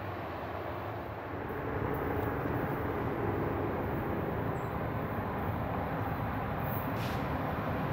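Distant freight train noise: the low rumble of a train receding, then, after a cut about a second and a half in, the steady, slightly louder rumble of an approaching diesel locomotive still far off.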